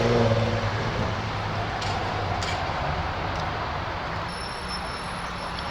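A car engine note dies away about a second in, leaving a steady rush of traffic noise.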